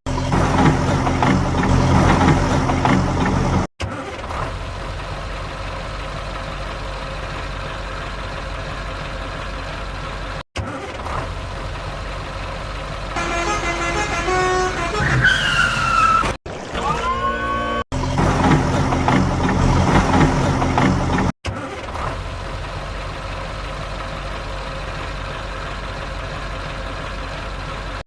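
Heavy vehicle engines running in several short spliced segments, broken by brief dropouts. About halfway through come a few horn-like toots with gliding tones.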